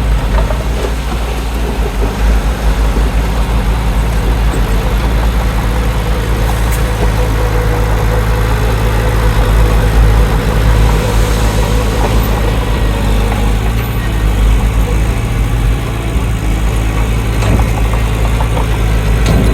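Heavy earthmoving machine's diesel engine running steadily at a constant pitch under a low, even hum.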